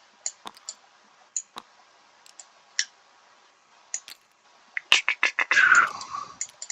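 Small hard game pieces being handled and set down, giving scattered sharp clicks. About five seconds in comes a quick run of louder clicks and a brief rattle.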